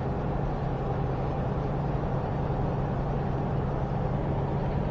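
Semi-truck engine and road noise heard from inside the cab while driving at a steady pace: an even, unchanging low drone.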